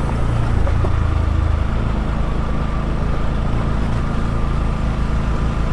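Bajaj Pulsar NS200's single-cylinder engine running steadily while the motorcycle is ridden, under steady wind and road noise.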